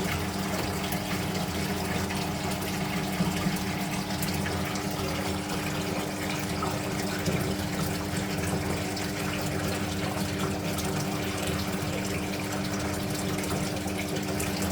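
Speed Queen top-loading washing machine running mid-cycle with steady rushing water and a constant low hum.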